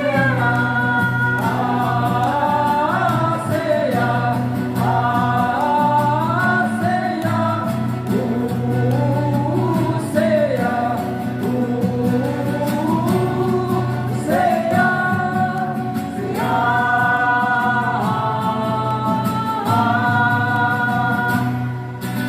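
Live song performance: several voices singing together over steady instrumental backing. The level drops near the end.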